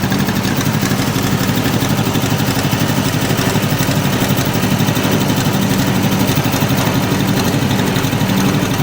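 Tractor engine running steadily under way, heard from the driver's seat.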